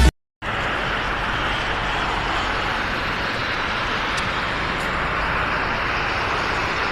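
Steady rushing vehicle noise, even and unchanging, coming in after a split second of silence.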